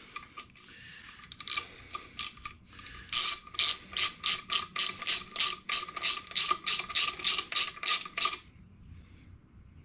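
Ratchet wrench clicking as a bolt is run in on an engine block: a few scattered clicks at first, then a steady run of about four clicks a second that stops about eight seconds in, once the bolt is snug.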